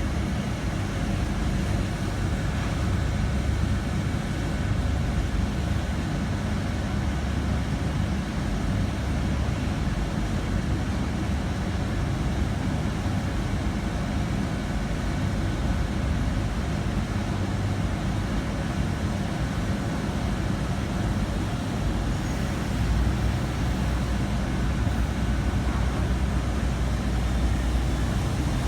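Diesel engines of a GWR Class 802 bi-mode train running as it departs, a steady low rumble. A deeper hum grows stronger about 23 seconds in.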